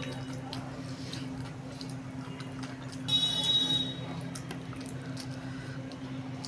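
Wet, squishy mouth and eating sounds from chewing curry and rice, with small scattered clicks over a steady low hum. A brief high-pitched squeak about three seconds in.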